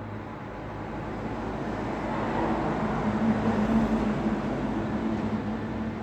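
Road traffic: a vehicle passes, its tyre and engine noise swelling to a peak about halfway through and then fading.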